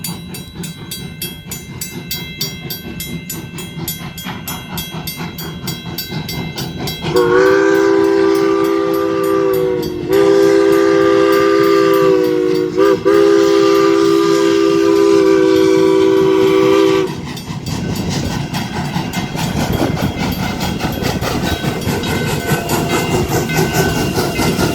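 A crossing's mechanical bell rings rapidly with a steady clang. About seven seconds in, the Virginia & Truckee 2-8-0 steam locomotive's three-chime whistle sounds loud for about ten seconds in three long blasts. The train then rumbles and rattles over the crossing while the bell keeps ringing.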